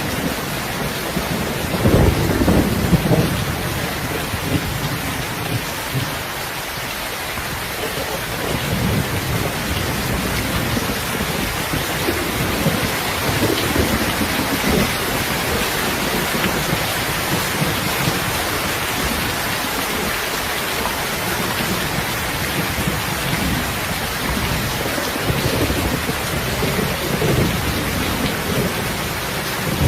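Steady rain falling, with slow low rumbles swelling up now and then, about a second in, midway and near the end.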